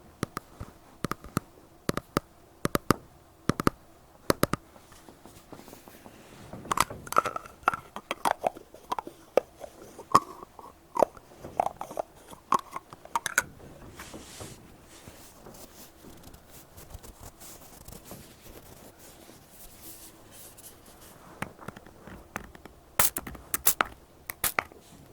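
Cotton pad wiped and rubbed over a binaural microphone's ear, giving close crackling scratches and clicks. The sound goes quieter for several seconds in the middle, and a burst of sharp crackles comes near the end.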